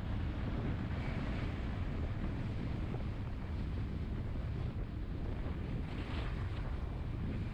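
Wind rumbling steadily on a GoPro Hero 7 Black's microphone while riding along a city road, with vehicle noise underneath.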